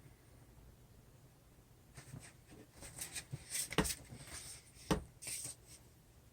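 Drawing strokes scratching on paper, a run of short strokes starting about two seconds in, with two sharper taps near the middle.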